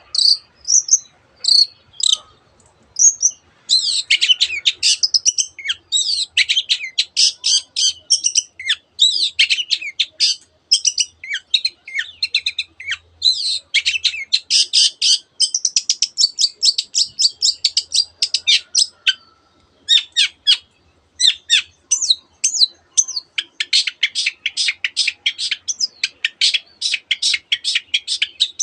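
Long-tailed shrike (cendet) singing a fast, dense song of high chattering notes and mimicked phrases of other birds, including canary-like passages. After a few scattered notes the song becomes continuous, with a run of rapid, evenly repeated notes near the end.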